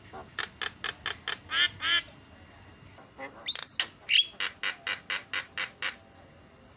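Javan myna (jalak kebo) calling: a run of harsh, rapid squawks at about five a second, then a short whistled glide up and down in pitch, then another run of squawks.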